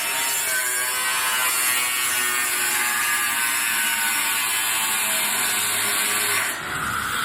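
Steady sawing noise on a building site: a continuous high hiss that dips briefly near the end.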